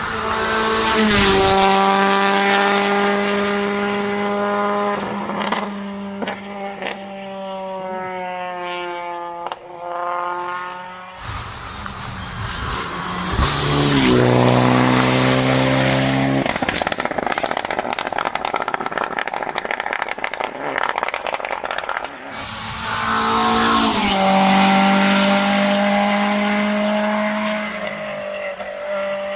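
Rally car engines revving hard and climbing through the gears, each upshift dropping the pitch, in three bursts as the cars go by. A rushing noise with some tyre squeal fills the middle stretch.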